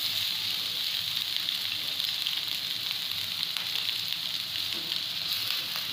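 Vegetables frying in hot oil in a wok over a high gas flame, sizzling steadily.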